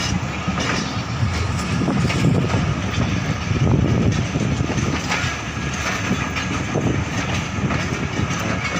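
Passenger train running along the line, heard from inside a carriage: a steady noise of the wheels on the rails.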